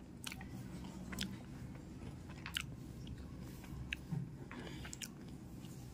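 Crisp, double-fried aloo tikki (potato patty) being chewed close to the microphone, giving a few short, sharp crunches over a faint background.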